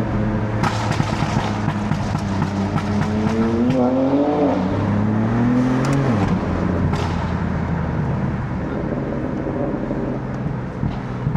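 BMW F80 M3's twin-turbo inline-six heard in a moving car: revs climb, dip briefly about four and a half seconds in, climb again, then fall away about six seconds in and settle to a steady drone. A few sharp cracks are scattered through it.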